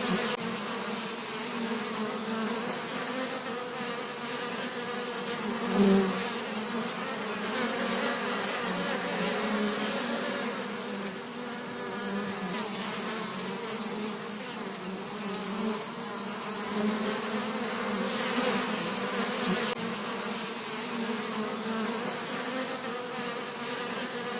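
Bees buzzing in a steady drone, with a brief louder swell about six seconds in.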